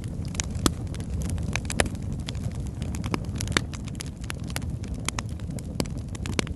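Log fire crackling in a fireplace: irregular sharp pops and snaps of burning wood, several a second, over a steady low rumble of the flames.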